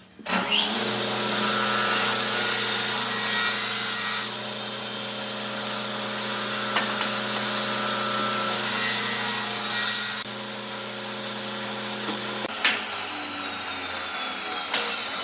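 Wood lathe motor starting up with a rising whine and running steadily, with two stretches of tool work scraping the spinning wood. Near the end the motor is switched off and its whine slowly winds down.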